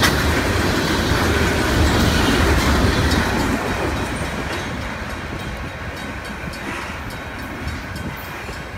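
Freight train's tank cars rolling past close by, a steady rumble of wheels on rail. About four seconds in the last car goes by and the sound falls away as the train rolls off, leaving scattered faint wheel clicks.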